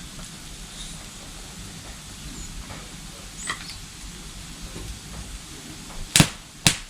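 Steady low background hiss with a few faint high ticks, then two sharp knocks about half a second apart near the end.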